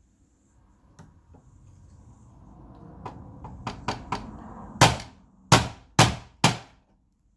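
A screwdriver scraping and prying at a projector's plastic part, building gradually with a few small clicks, then four sharp knocks about half a second apart as the part is struck to pop a cap loose.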